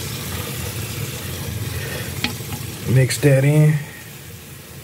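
Chopped chicken and kimchi frying on a hot flat grill, stirred with a spatula: a steady sizzle with a couple of sharp clicks. A short voice sounds about three seconds in.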